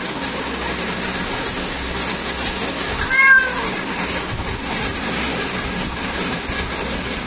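A female cat gives one meow about three seconds in, a short call that bends downward in pitch, as she calls for a mate. A steady background hiss runs underneath.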